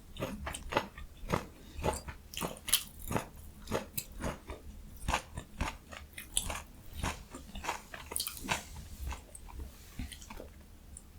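Close-miked chewing of food, with quick, crisp crunches and wet clicks coming several times a second and thinning out near the end.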